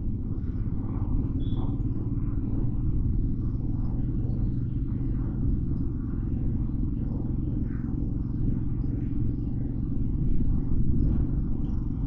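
Steady low rumble of a motorcycle on the move through city traffic, with faint traffic noise above it.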